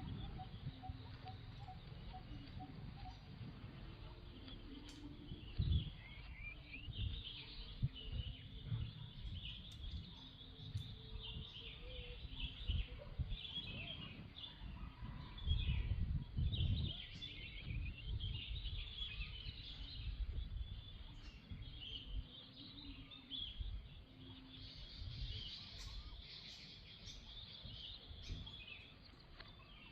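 Many birds chirping and twittering in a dense, continuous chorus. Irregular low thumps and rumbles run underneath and are loudest about halfway through.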